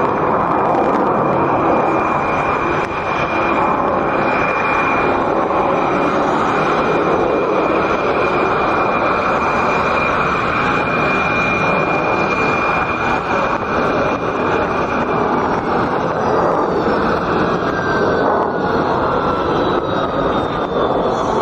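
Su-57 fighter's twin jet engines running loud during a display flight: a continuous roar with a steady high whine. About three-quarters of the way through, the whine drops away and falling tones glide down in pitch as the jet passes.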